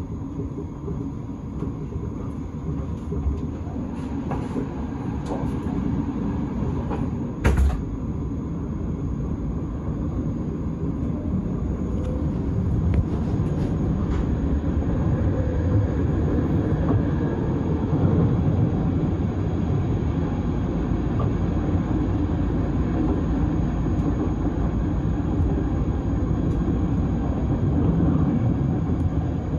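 S-Bahn electric train heard from inside the carriage as it runs out of a station into a tunnel, a dense low rumble that grows steadily louder as it gathers speed. One sharp knock rings out about seven seconds in.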